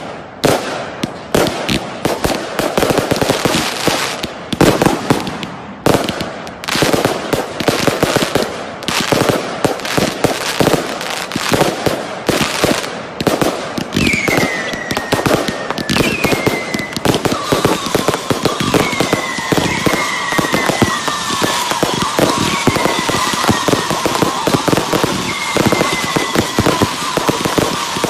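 Fireworks finale: a dense, continuous barrage of rapid bangs and crackling. From about halfway through, whistling fireworks join in again and again, each whistle falling in pitch.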